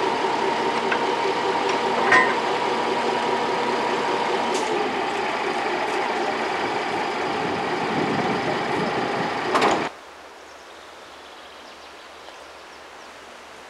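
Public transit vehicle running, a steady hum of several held tones with a sharp click about two seconds in; it cuts off abruptly about ten seconds in, leaving a much quieter, even background.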